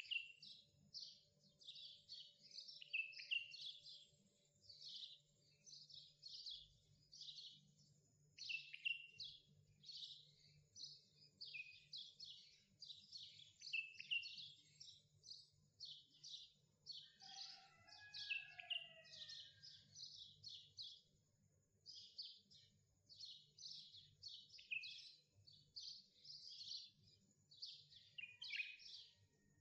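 Faint small birds chirping in quick, high, falling notes, almost without a break; around the middle a lower, different call briefly joins in. A faint steady low hum lies underneath.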